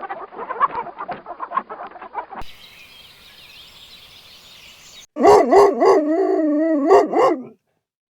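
Chicken clucking in quick rough bursts for about two seconds, then after a short lull a loud, wavering pitched call of about two and a half seconds.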